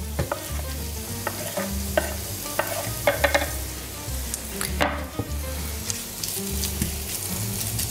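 Diced chicken breast and onions sizzling in coconut oil in a frying pan, with a wooden spatula scraping and knocking as the chicken is pushed off a wooden board and stirred around the pan.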